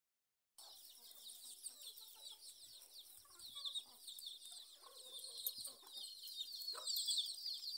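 A flock of chickens: many chicks peeping in quick, high, falling cheeps without pause, with hens clucking softly underneath. It starts about half a second in and grows slightly louder toward the end.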